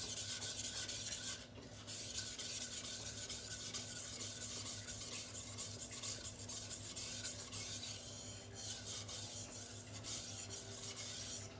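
Cleaver blade being rubbed back and forth on a wet 1000-grit silicon carbide waterstone: a steady gritty rasping, with a brief break about two seconds in.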